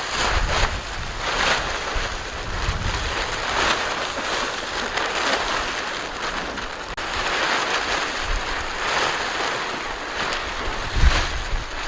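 Strong gusting wind rushing and buffeting the microphone, with a deep rumble that swells and fades in gusts.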